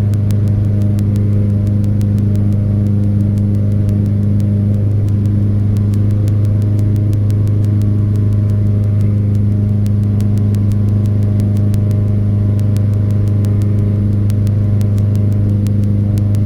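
Cessna 172's piston engine and propeller droning steadily at climb power, heard in the cockpit, with faint clicks over it.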